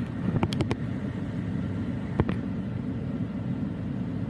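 Truck engine idling, a steady low rumble heard inside the cab, with a quick run of four clicks about half a second in and a single knock about two seconds in.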